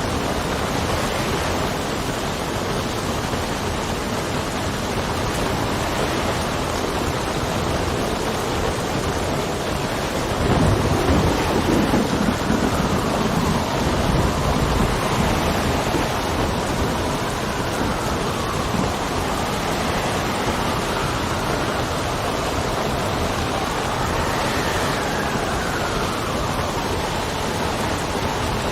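Steady heavy rain, with a low rumble of thunder rising about ten seconds in and lasting a few seconds. Wind whistles through the second half, its pitch slowly rising and falling.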